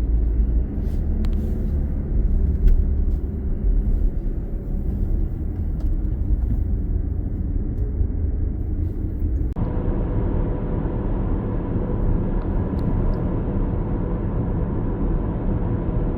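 Steady road noise of a moving car, strongest in the low end, with an abrupt cut about ten seconds in to a second stretch of driving with a faint steady hum.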